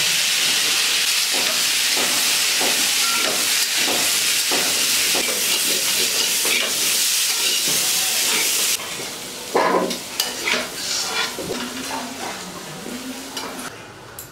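Cubed potatoes sizzling in hot oil in a steel karai, with a metal spatula knocking and scraping against the pan in regular stirring strokes. About two-thirds of the way through, the sizzle cuts off suddenly, and a few separate metal clanks and scrapes follow.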